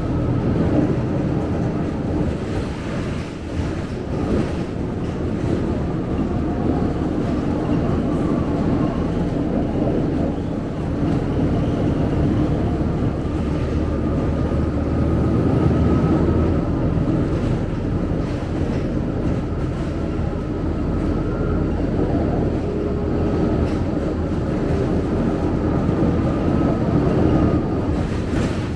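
Scania K270UB single-decker bus heard from inside the cabin while on the move: steady engine and road noise, with a faint whine that drifts slowly in pitch.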